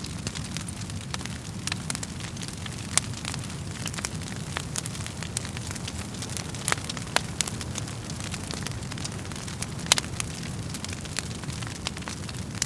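Wood fire burning in a fireplace: a steady low rumble of flames with irregular sharp crackles and pops from the burning logs, two louder pops about 3 and 10 seconds in.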